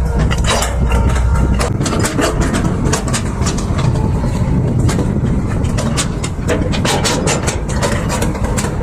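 Excavator working: its diesel engine running under many sharp metallic clanks and knocks.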